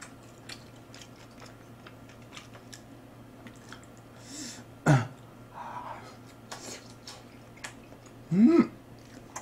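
Close-miked chewing and mouth noises from a person eating grilled beef, with scattered small clicks. There is a short throaty vocal sound about five seconds in and a short rising hum near the end.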